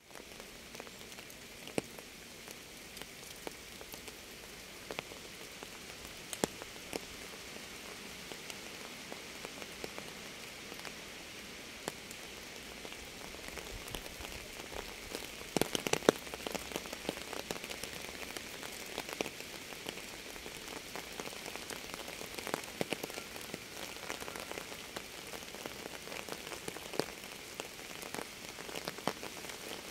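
Rain falling: a steady hiss with scattered sharp raindrop impacts, and a brief cluster of louder drips about halfway through.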